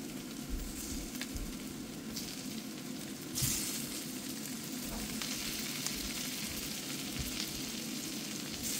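White asparagus spears sizzling in foaming melted butter and garlic in a frying pan, with a few light taps. The sizzle gets brighter and louder about three and a half seconds in.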